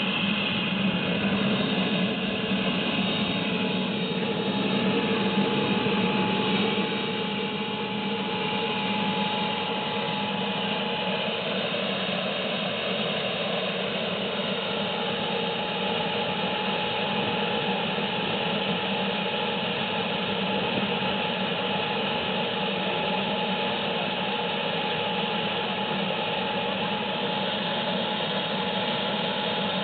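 Jetfly jet engine running steadily: a continuous rushing whine with a few steady tones. It eases down slightly about seven seconds in and then holds at an even speed.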